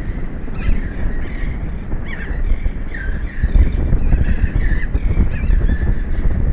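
Several birds giving short, harsh calls over and over, overlapping one another, over loud wind buffeting the microphone.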